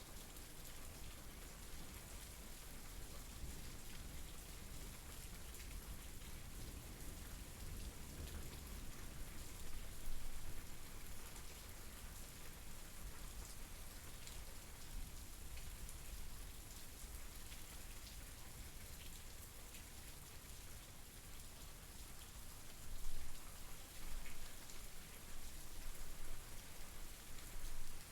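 Steady rainfall, a dense patter of drops with a few louder gusts of heavier rain around ten seconds in and again in the last few seconds.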